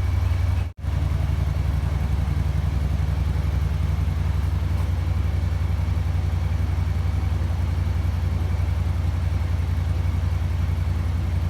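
Kymco AK550 maxi-scooter's 550 cc parallel-twin engine idling with a steady, even low pulse. There is a momentary break in the sound under a second in.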